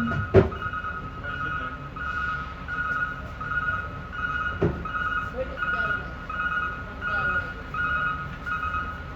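An electronic beeper sounding a steady repeating two-tone beep, about two beeps a second, with a sharp knock near the start and another about halfway through.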